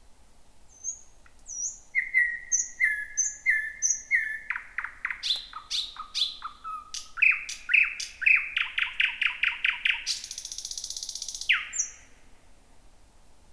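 Thrush nightingale singing one full song phrase. Groups of repeated sharp notes quicken into a fast rattle, then a dry buzzing trill of about a second and a half, and the phrase closes with a single down-slurred note near the end.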